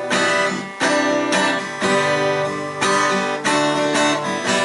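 Acoustic guitar strummed between sung lines of a song, chords ringing with a fresh strum about every second.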